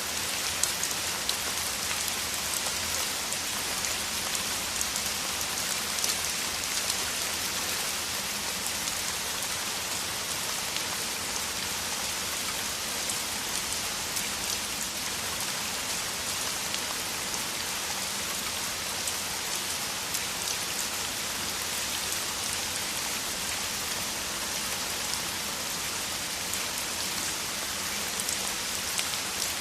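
Downpour: heavy rain falling steadily, a dense even hiss with many individual drops ticking through it.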